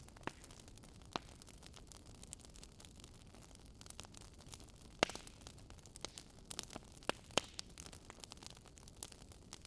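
Campfire ASMR track of a wood fire crackling faintly: irregular sharp pops and snaps over a soft steady hiss.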